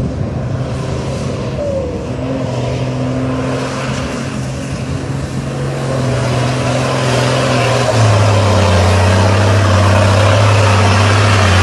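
Truck engine running steadily under load with a low, even hum. It grows louder about six seconds in, and its pitch steps down and strengthens about eight seconds in.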